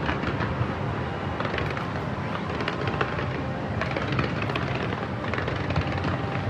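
Fireworks going off in rapid succession: a dense run of crackles and bangs over a continuous low din.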